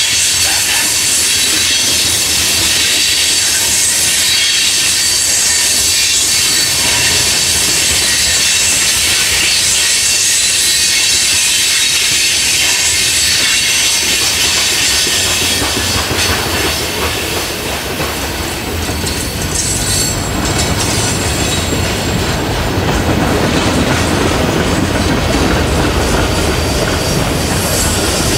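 Train rolling past: wheels clattering on the rails with a steady high-pitched squeal of steel wheels on rail, its loudness dipping briefly about two-thirds of the way through.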